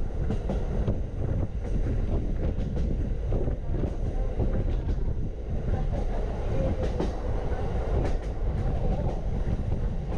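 Norokko sightseeing train running along the track, heard from inside a carriage: a steady low rumble of wheels on rail with irregular clicks and clacks.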